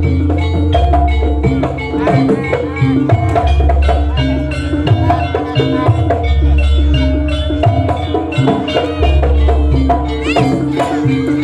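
Javanese jaranan gamelan music played live: regular drum strokes and a ringing metal-percussion melody over long, deep low tones, with a few short rising high glides near the end.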